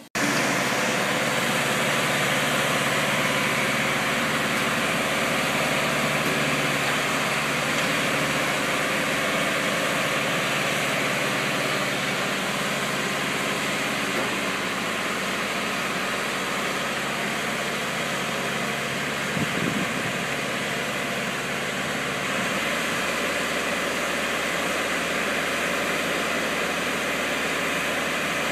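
Boat gantry's engine running steadily, with a brief clunk about two-thirds of the way through.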